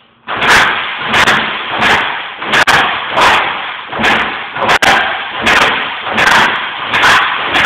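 A Baja X250 dirt bike engine catching and running loudly, its sound swelling and falling in a steady pulse about three times every two seconds.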